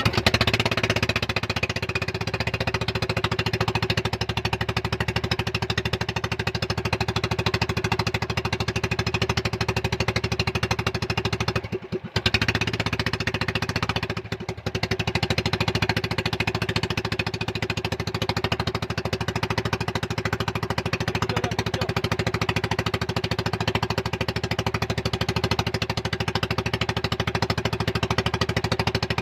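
Motorboat engine running steadily with a fast rhythmic pulse, the sound dropping out briefly twice in the middle.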